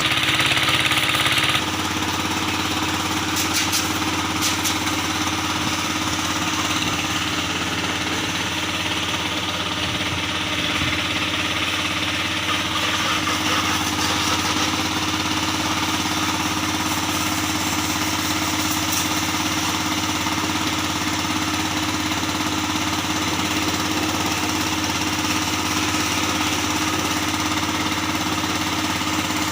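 Kubota L3608 tractor's diesel engine running steadily at constant speed. It is a little louder for the first second and a half, then settles to an even level.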